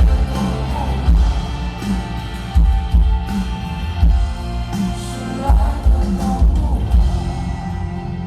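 Live rock band playing at full volume, with a heavy kick drum and bass under sustained guitars and keyboards.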